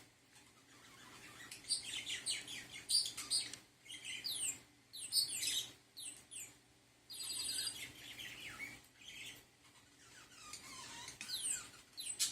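Budgerigar chirping and warbling in bursts of quick, high notes with short pauses between.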